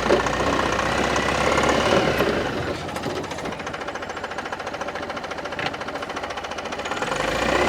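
800 cc two-cylinder turbo common-rail diesel engine running with a rapid, even diesel clatter. It is louder at first, settles to a steadier, quieter chug, then picks up again near the end.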